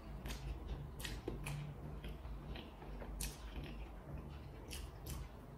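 A person chewing a mouthful of stir-fried instant noodles, with faint wet smacks and clicks from the mouth scattered a few times a second.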